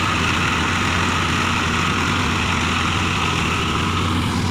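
Mahindra Arjun Ultra-1 555 DI tractor's four-cylinder diesel engine running steadily with a constant low drone.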